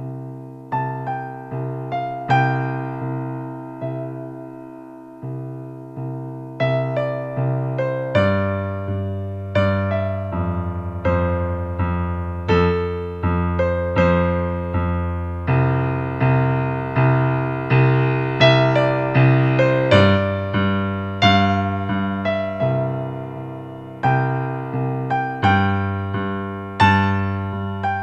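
Solo piano or electric piano playing a slow, gentle piece: single melody notes struck one after another over held chords, each note fading after it is struck.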